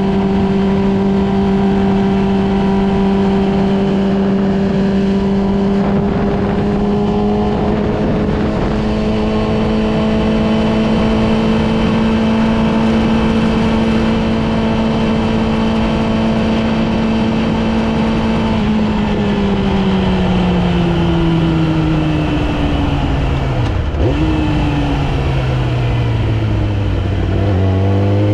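Yamaha R6's 600 cc inline-four engine running at a steady cruising pitch, which steps up slightly about a quarter of the way in. About two-thirds of the way through, the pitch falls away for several seconds as the bike slows, with a brief blip in the middle of the slowdown. Near the end the pitch rises again as it accelerates.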